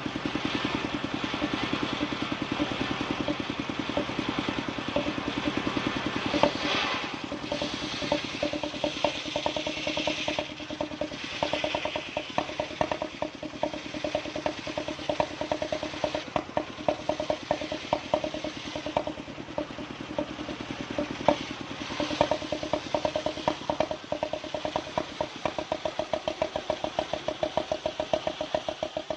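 Engine of a wood-sawing machine running steadily with a fast, even firing beat.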